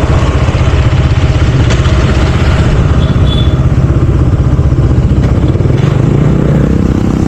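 Motorcycle running steadily on the move, heard as a loud, even low rumble.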